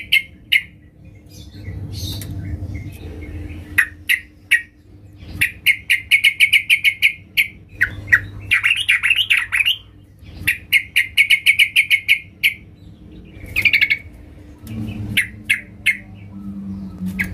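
Yellow-vented bulbul (trucukan) calls, the female call used to lure males. It gives fast chattering runs of short notes, each run about two seconds long, with single sharp notes between them and a harsher, scratchier run about eight seconds in.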